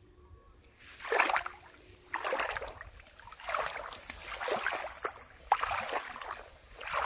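Shallow water splashing and sloshing in repeated bursts, about one a second, starting about a second in.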